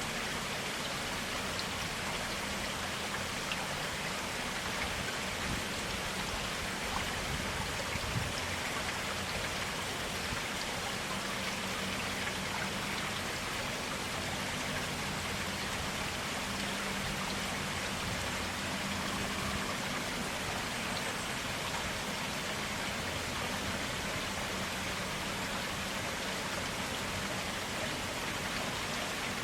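Stream water flowing steadily: a constant, even rush of water with no breaks.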